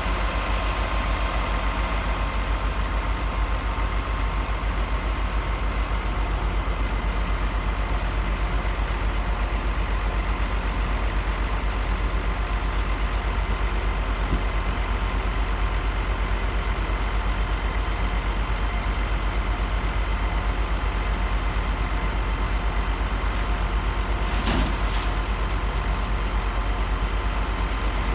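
Heavy farm engine running steadily at a constant speed, with a brief clank about 24 seconds in.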